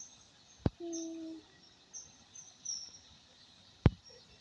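Small birds chirping in short high calls every so often. A short steady hum comes about a second in, and a single sharp click comes near the end.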